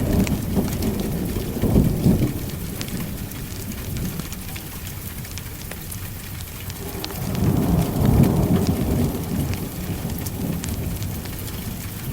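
Steady rain with scattered sharp drop ticks, and thunder rolling low twice: one short roll about two seconds in, and a longer one swelling up past the middle and fading away.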